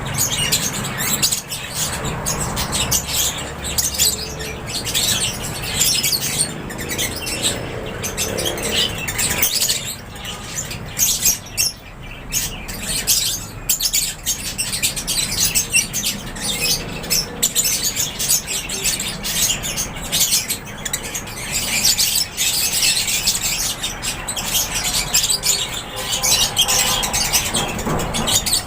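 A flock of African lovebirds and budgerigars chirping and squawking continuously, with many calls overlapping.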